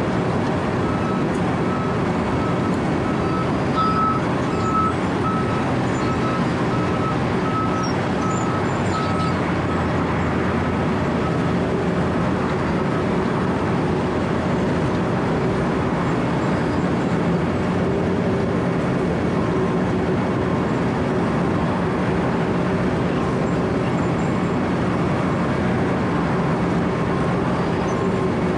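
Wirtgen W 120 CFi cold milling machine running steadily under load, its engine humming under the constant grinding of the cutting drum in asphalt. A backup alarm beeps steadily through the first half, and a second, fainter and lower backup alarm starts beeping about two-thirds of the way through.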